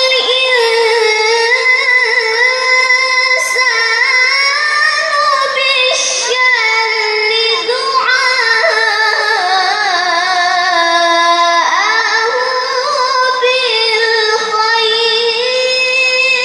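A child reciting the Qur'an in melodic tilawah style: a high voice holds long notes with wavering ornaments, sliding between pitches.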